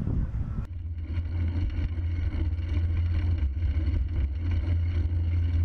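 Steady low drone of a car's engine and road noise while driving, with an abrupt change in the sound less than a second in.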